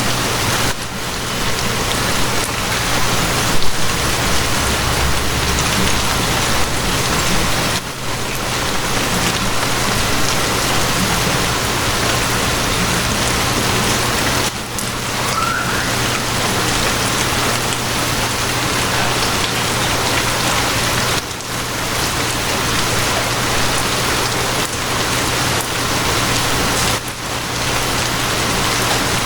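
Steady rain falling, an even hiss over a low steady hum, with brief dips in level every seven seconds or so.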